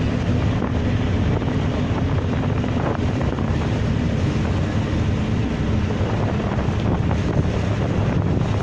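Wind buffeting the microphone on a moving boat, over the steady low drone of the boat's engine and the wash of waves.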